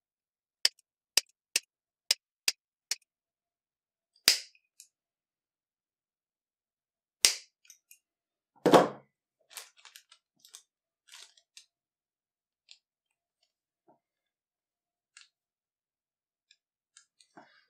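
Rotary leather hole punch clicking shut as it cuts through a strip of soft leather: six quick sharp clicks about two a second, then single clicks a few seconds apart. A louder, duller noise comes about nine seconds in, followed by faint handling ticks.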